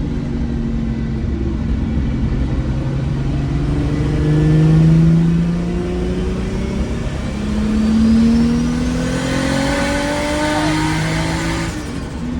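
Turbocharged Toyota Supra engine accelerating hard under boost on a third-gear roll. The engine note climbs, drops once at a gear change, then climbs again as a rushing hiss builds over it. Near the end it cuts off sharply as the throttle closes.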